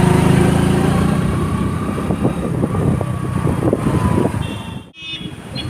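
Motorcycle engine running under way, its low pulsing note strongest in the first second or so; the sound drops out abruptly for a moment near the end.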